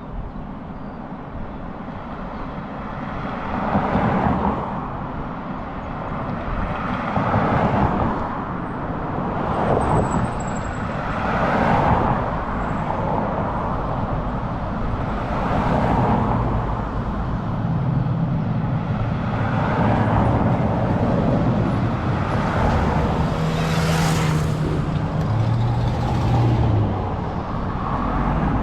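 Road traffic: motor vehicles passing one after another, each swelling and fading, about one every four seconds. In the second half a heavier vehicle's low engine hum runs under the passing cars.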